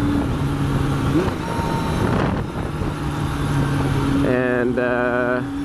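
Yamaha FZR600 motorcycle engine running under way at fairly steady revs, its drone shifting pitch a couple of times in the first second or so, with wind and road noise. A voice is heard briefly near the end.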